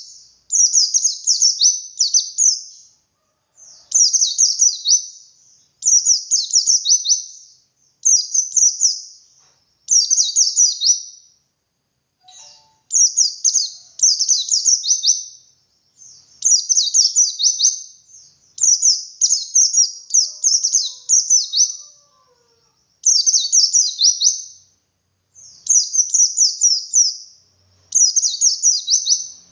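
A pleci dakun white-eye singing its 'ngalas' song: phrases of rapid, high, twittering notes, each lasting about a second, repeated every couple of seconds with short pauses between. It is the lively, varied 'wit wit' song style that birdkeepers play to set other white-eyes singing.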